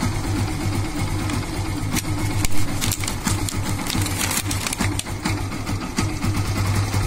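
Yamaha FZ V1's single-cylinder engine running steadily, with scattered clicks, during a check of its charging voltage after the regulator-rectifier was replaced.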